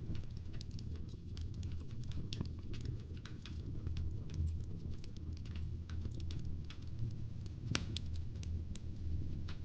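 Wood fire crackling, with irregular small pops and snaps over a low steady rumble and one louder pop near the end.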